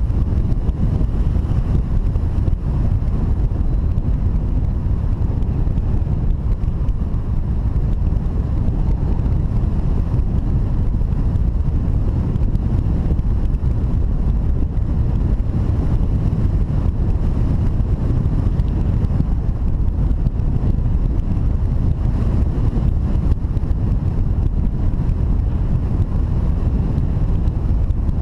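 Wind buffeting the microphone: a steady, loud low rumble of rushing air that never lets up.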